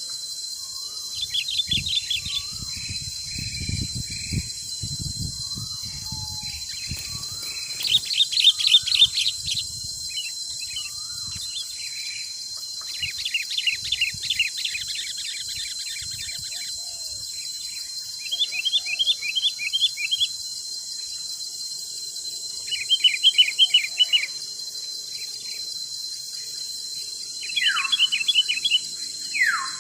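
Forest birds singing in short bouts of rapid trills, about seven phrases a few seconds apart, over a steady high insect drone. A low rumble of wind comes in during the first third.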